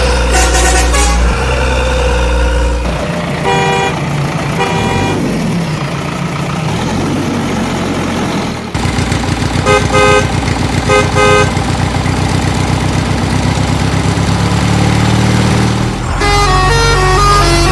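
Vehicle engine sound effects running and revving, with horn honks in pairs, and a musical tune starting near the end.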